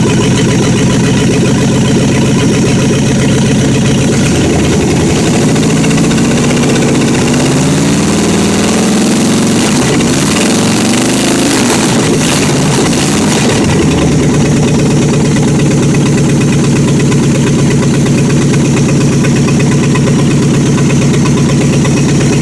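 1976 Dodge Coronet's freshly rebuilt 318 cubic-inch small-block V8 running loud with no mufflers fitted. It idles, is revved up and down several times from about four seconds in until about thirteen seconds in, then settles back to a steady idle.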